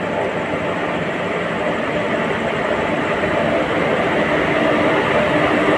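Train running along the track, a steady rumble of wheels on the rails that grows slightly louder.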